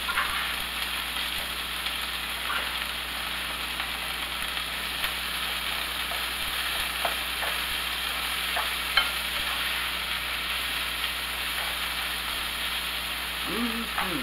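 Cabbage and bacon sizzling in bacon grease in a nonstick skillet, with a spatula stirring and scraping through it in short clicks. One sharper tap about nine seconds in.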